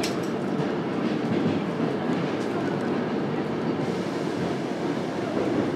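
Suburban electric train (elektrichka) running along the track, heard from inside the carriage: a steady rumble of wheels on rails.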